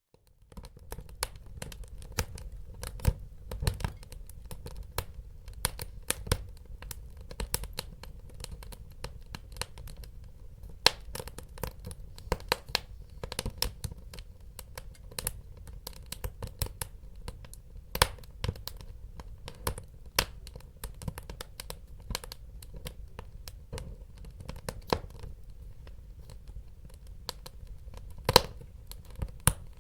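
Wood fire burning in a fireplace, crackling with frequent sharp pops and snaps of varying loudness over a low steady rumble. It begins after a brief moment of silence at the very start.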